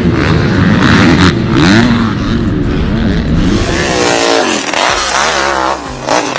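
Off-road vehicle engine revving up and down again and again, its pitch climbing higher and wavering in the second half.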